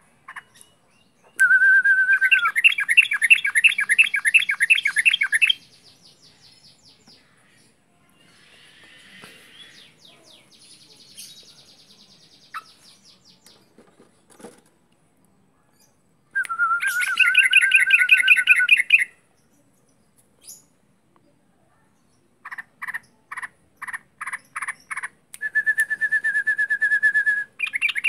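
Yellow-vented bulbul (trucuk) singing loud phrases in the 'ngaruda' style. Each phrase opens with a short held whistle and then runs into a fast string of repeated notes. Three main bursts are separated by quieter twittering.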